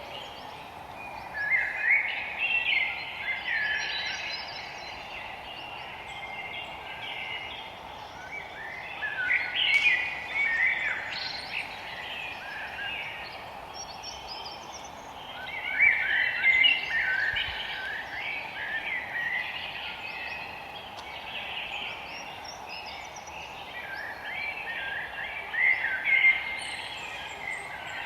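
Forest birds singing: a loud burst of quick chirping song comes back four times, with softer chirps between, over a steady background hum.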